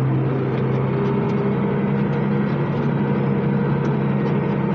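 International 886 tractor's six-cylinder diesel engine running steadily at a constant speed.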